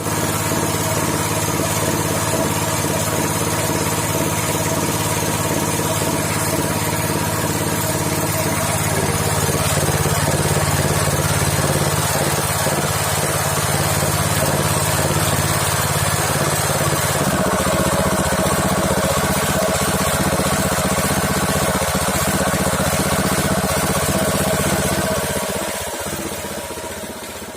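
Sanchin 20 high-pressure car-wash washer running steadily, a continuous machine drone whose tone changes about two-thirds of the way through before it fades away near the end.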